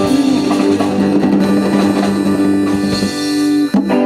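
Live band playing the instrumental closing bars of a song, with drums under held chords; the music breaks off briefly near the end, then lands a final chord.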